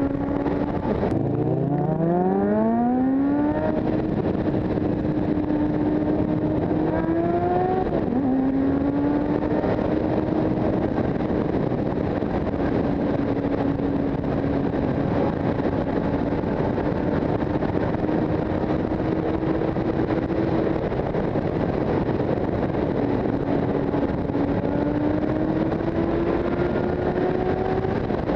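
Motorcycle engine under way: about a second in the revs drop low and then climb steeply as it accelerates, a gear change drops the revs about eight seconds in, and it then cruises at steady revs, rising slowly near the end. A steady rush of wind and road noise runs underneath.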